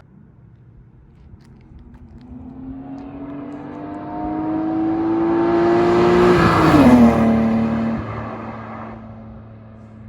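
BMW E36 M3's straight-six engine accelerating toward and past, rising steadily in pitch and loudness. About two-thirds of the way in its pitch drops sharply as the car goes by, and the sound then fades away.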